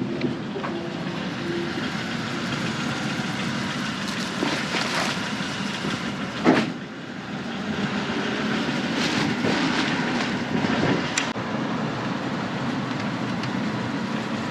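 A vehicle driving slowly: a steady rumble with rattles and knocks, and one loud clunk about six and a half seconds in.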